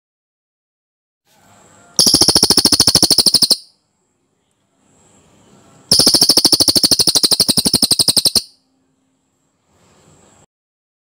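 Cililin singing its dense rolled song: two fast, loud trills of rapid repeated notes, one about two seconds in lasting a second and a half and a longer one about six seconds in lasting over two seconds, each preceded by faint soft calls.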